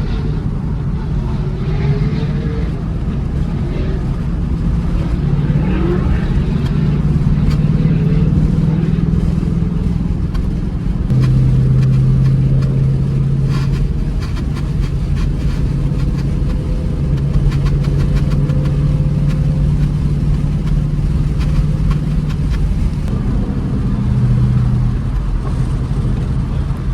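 Car engine running hard at speed through a track lap, heard from inside the cabin, with road and wind noise; the engine note holds steady for several seconds at a time and steps up or down in pitch a few times, louder about eleven seconds in.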